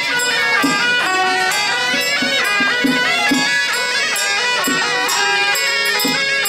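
Traditional temple festival music: reedy wind instruments playing a melody over recurring drum beats.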